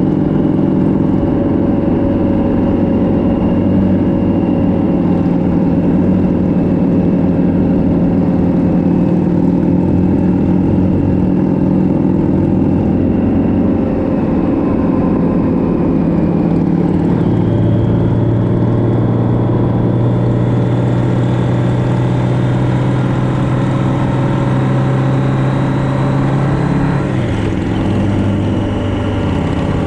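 Motorcycle engine running steadily while riding along a road. A stronger, deeper engine note comes in a little past halfway and drops away again near the end, as the load or gear changes.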